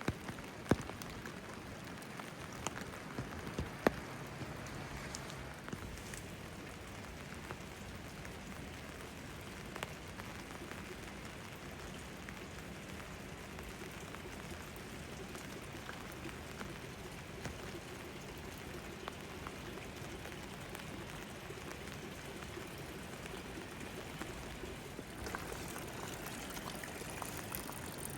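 Steady rain falling, with single drops tapping sharply close by in the first few seconds. The rain grows a little fuller near the end.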